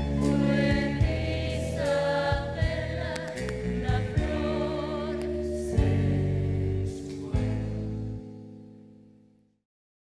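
Musical-theatre music with a choir of voices singing over sustained chords and a few drum hits, fading out to silence near the end.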